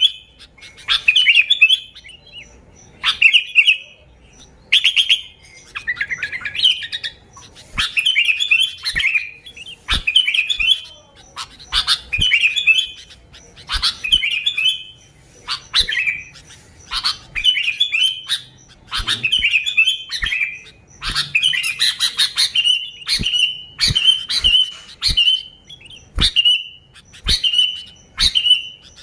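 Sooty-headed bulbul singing energetically: short, warbling song phrases repeated about once a second. Near the end they give way to a run of short, evenly spaced notes.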